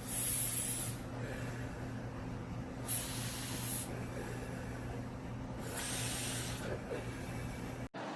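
Three short hisses, each just under a second and about three seconds apart, over a steady low hum.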